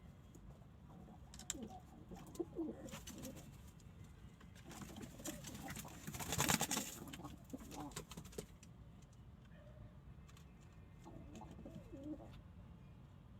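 Domestic pigeons cooing in low, rolling phrases that come in three spells, with a brief louder rustle in the middle.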